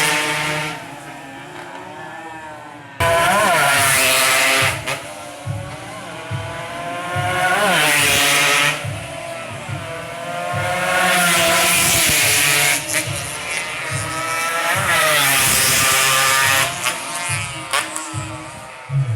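Motorcycle engines running and revving, their pitch rising and falling again and again, with loud surges every three to four seconds between quieter stretches.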